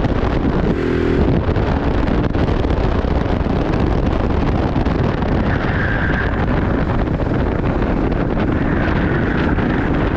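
Wind rushing over the microphone on a moving vehicle, with the vehicle running underneath. A short pitched sound comes about a second in, and two brief high tones come later.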